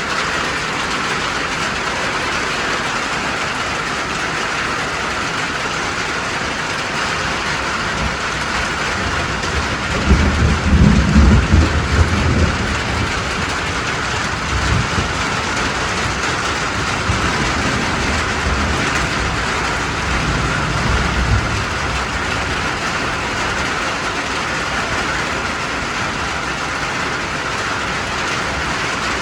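Steady rain falling on the cabin roof, a constant even hiss. Low rumbles rise under it about a third of the way in, with smaller ones later.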